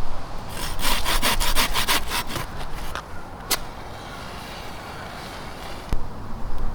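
A hand saw cutting wood in quick rasping strokes, about five a second, for around two seconds. The strokes stop, then a sharp click and, later, a knock.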